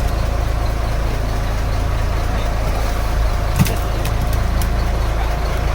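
Fishing boat's engine idling steadily with a low hum, with a couple of light clicks about three and a half seconds in.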